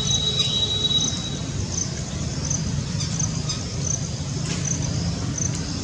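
Steady low rumble of distant road traffic, with a faint high chirp repeating about every three-quarters of a second.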